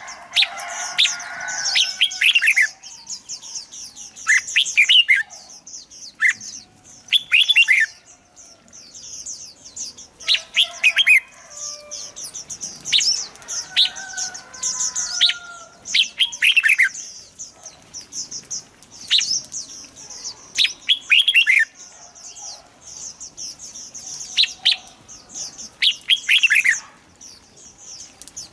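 Red-whiskered bulbuls singing: short, bright warbled phrases that come every two to three seconds, over a continuous high twittering of other chirps.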